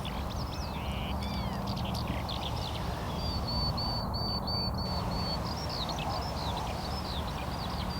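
Small birds chirping and twittering: many quick high chirps and short rising and falling notes, with one bird repeating the same short chirp several times in quick succession near the middle. A steady low hum runs underneath.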